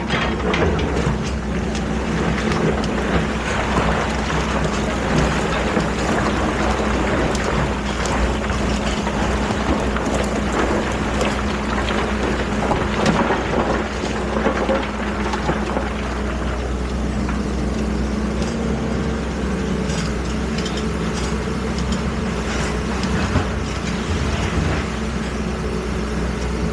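Excavator engine running steadily, with scattered knocks and clanks from the machine working.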